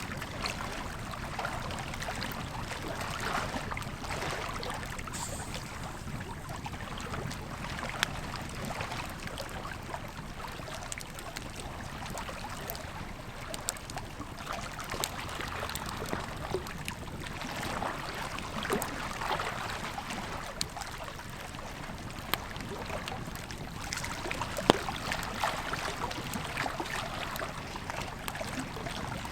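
Campfire crackling, with scattered small snaps and a couple of louder pops, over the steady rush of a flowing river.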